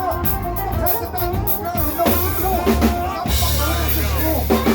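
Live band music: a drum kit keeping a beat over a bass line, with guitar.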